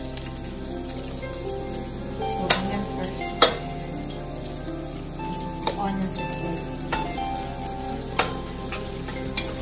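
Chopped onion sizzling in hot oil in an aluminium wok while being stirred with a wooden spatula, which knocks sharply against the metal pan about four times.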